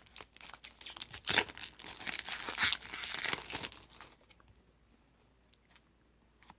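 Trading card pack wrapper crinkling and tearing open in quick scratchy bursts for about four seconds, then only a few faint clicks.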